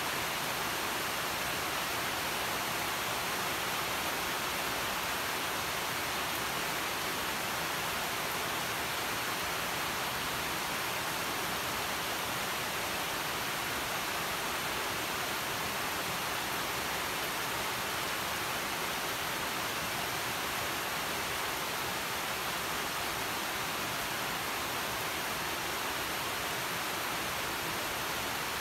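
Steady rain falling on leafy vines: an even, unbroken hiss that holds the same level throughout.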